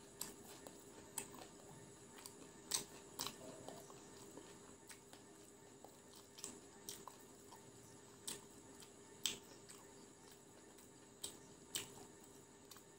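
Quiet close-up chewing with scattered sharp wet mouth clicks and lip smacks, about a dozen spread unevenly, over a faint steady hum.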